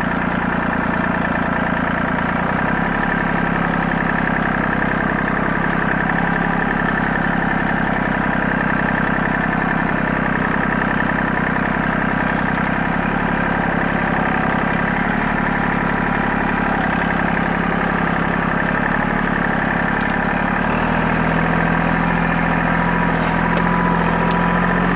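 Tractor engine running steadily under way, its low note shifting slightly a couple of times, with a few faint clicks near the end.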